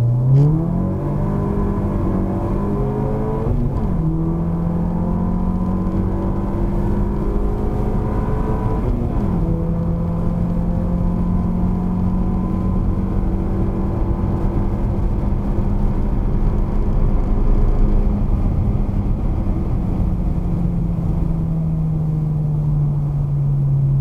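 Car engine heard from inside the cabin, pulling hard at full throttle: the revs climb steeply and drop sharply at two upshifts, about 4 and 9 seconds in, then hold high and steady before falling away near the end as the throttle eases.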